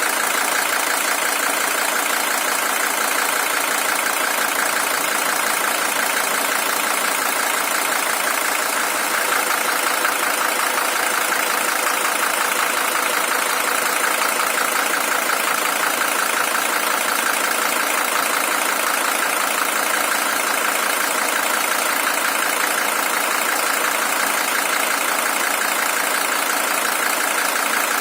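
Mercedes-Benz W123 300TD's OM617 five-cylinder diesel engine idling steadily, the original engine with 620,000 km on it.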